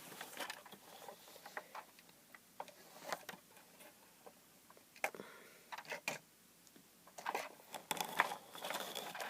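Plastic Lego bricks clicking and rattling as a large built Lego truck is handled: scattered light taps at irregular moments, busier near the end.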